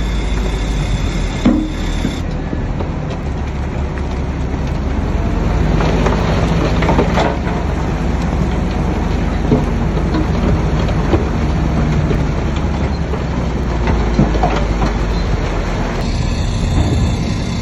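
Heavy diesel earthmoving machinery at work: an engine running under load with a continuous low rumble and scattered metallic clanks and knocks.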